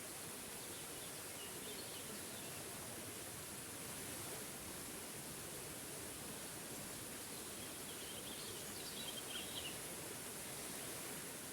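Waterfall rushing steadily, with a few short bird chirps about eight to ten seconds in.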